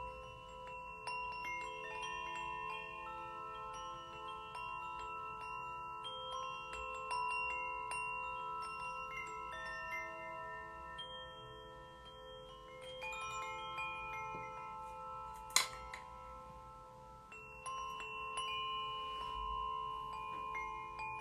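Struck metal instruments, a steel tongue drum, bells and a singing bowl, ringing in a slow run of overlapping notes that sustain for several seconds. There is one sharp click about fifteen and a half seconds in.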